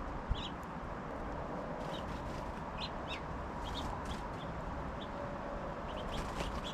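Short, high chirps of small songbirds at a backyard feeder, scattered irregularly, over a steady low background rumble.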